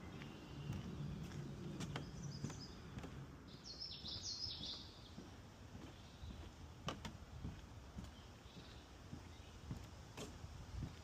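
Footsteps knocking on a wooden boardwalk, with a bird calling a short run of high notes about two to four seconds in.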